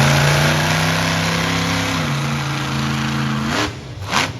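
Monster truck engine running hard on a jump run, its note dropping about two seconds in and then falling away near the end, followed by a single short, sharp bang.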